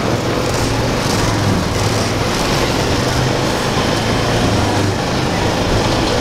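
Quad bike engine running steadily while riding, with a constant rushing road and wind noise over a low engine hum.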